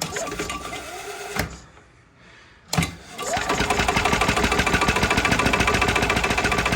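Yamaha G9 golf cart's starter-generator cranking the gas engine when the pedal is pressed, a fast, even churning that does not catch. A short first burst ends with a click; a few seconds in it clicks on again and cranks steadily, the engine turning over with spark but no fuel.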